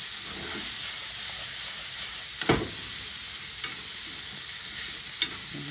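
Cabbage, onion, carrot, bell pepper and sliced meat sizzling in oil in a nonstick frying pan as they are stir-fried with chopsticks. A few sharp clicks break the steady hiss, the loudest about two and a half seconds in.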